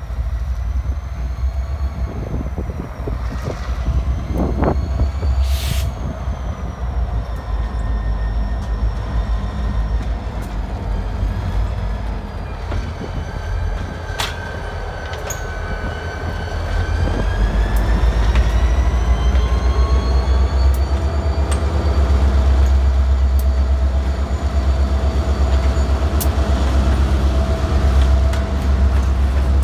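A freight train passing close, led by a CSX four-axle diesel locomotive: a deep, steady diesel engine rumble under thin whining tones that slowly fall and rise again, with the roll of wheels on rail. It grows louder about seventeen seconds in as the locomotives and cars come alongside.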